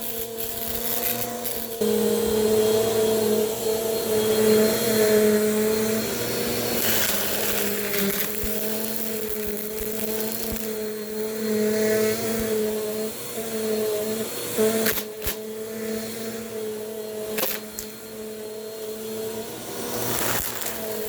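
Bissell PowerForce Compact vacuum cleaner running steadily while sucking up a mix of fluff and crunchy debris. Its motor pitch dips slightly about two seconds in as the load changes, with rushes of air and a few sharp clicks of debris being picked up.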